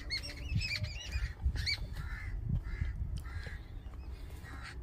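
Birds calling: a quick run of short chirps that rise and fall in pitch through the first two seconds, then a few fainter calls, over a low rumble of wind on the microphone.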